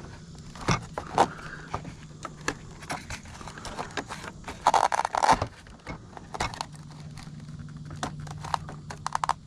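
Close handling noises: scattered clicks and scrapes, with a dense burst of rustling about five seconds in, over a low steady hum that drops out for a few seconds in the middle.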